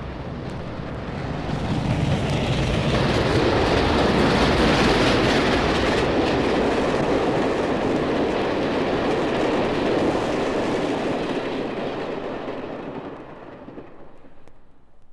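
A train passing by: its noise builds over the first couple of seconds, holds steady, then fades away near the end.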